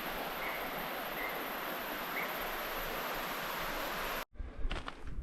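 Steady rush of river water. It cuts off suddenly about four seconds in, and a few sharp knocks follow.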